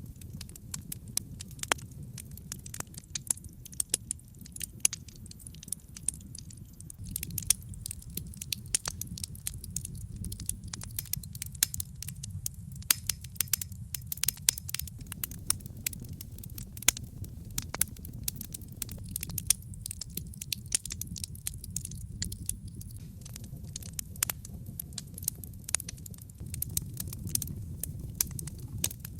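Wood logs burning in a fireplace: frequent sharp crackles and pops, irregular and many each second, over a steady low rumble of the flames.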